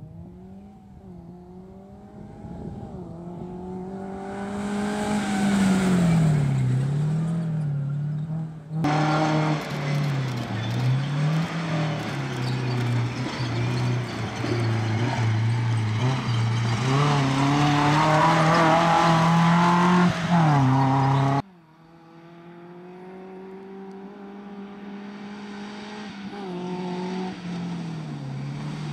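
Suzuki Jimny off-road rally car's engine revving hard, its pitch repeatedly climbing and dropping with throttle and gear changes. The sound cuts off suddenly twice, about nine seconds in and about two-thirds of the way through, and is loudest in the stretch between the two cuts.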